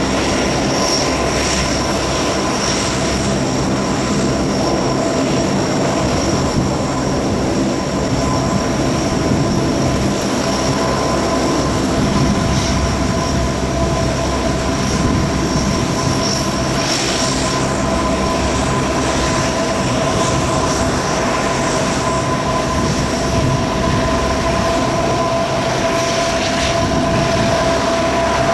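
Four Allison T56 turboprop engines of a P-3C Orion running steadily, a constant high whine over the engine and propeller noise.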